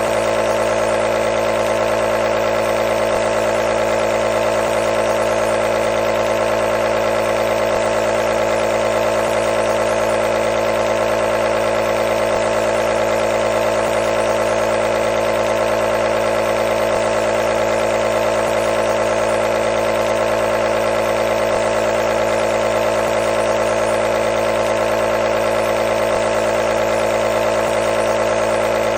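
Compressor nebulizer running steadily: a constant mechanical hum with a fine, rapid buzz.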